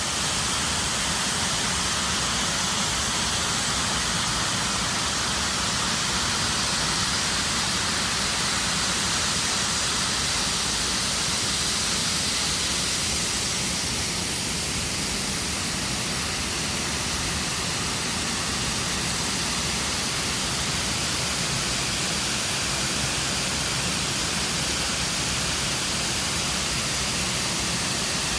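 Man-made cascading waterfall, water pouring and splashing steadily into a lake as a constant rushing hiss.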